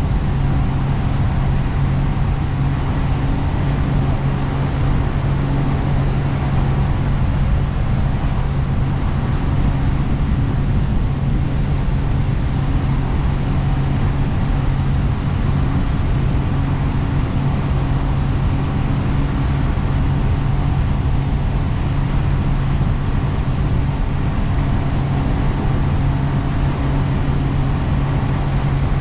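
Jet boat engine running at a constant speed, a steady low drone with an even rush of noise over it and no change in pitch.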